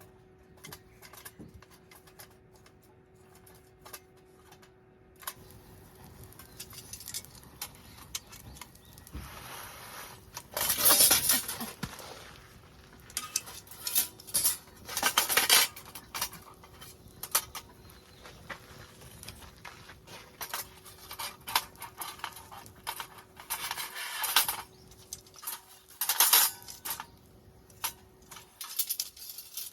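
Metal camp gear clinking and clattering as it is handled, in irregular bursts of clicks, loudest about eleven and fifteen seconds in.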